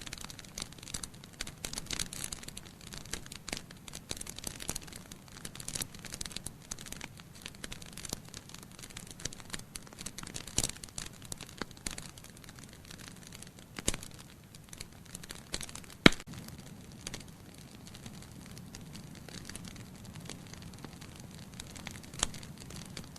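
Wood fire of burning logs in a fireplace crackling over a low steady hiss, with frequent small snaps that thin out in the second half. One sharp loud pop comes about two-thirds of the way through.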